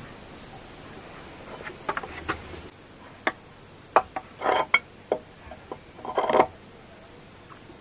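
A string of short, sharp clicks and knocks, with two longer rustling bursts about halfway through and near the end.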